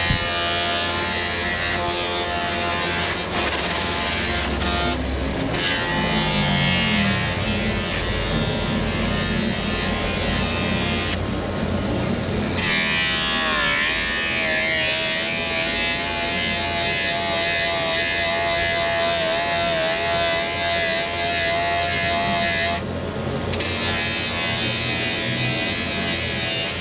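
A small electric power tool motor whirring steadily, with brief dips and a slight wavering in pitch.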